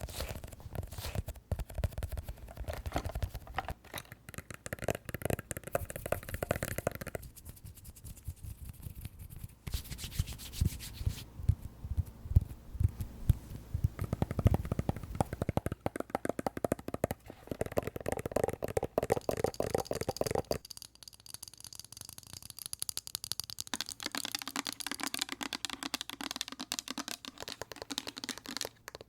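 Close-miked ASMR tapping and scratching with fingertips and nails on a series of different objects, rapid taps and clicks whose sound changes every few seconds as one object gives way to the next.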